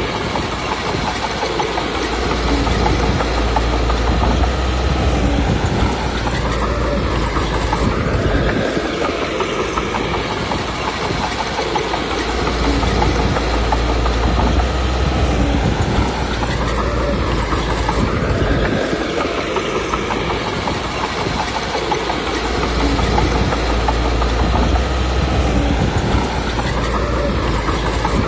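Komatsu D21P bulldozer's diesel engine working while its steel tracks clatter as it pushes stone. The engine load swells and eases about every ten seconds, giving a repeated heavier rumble.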